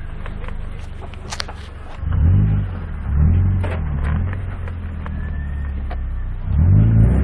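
Ford Focus 2.5 engine idling with a deep exhaust rumble, then revved in three short blips starting about two seconds in, settling back to idle, and revved again near the end.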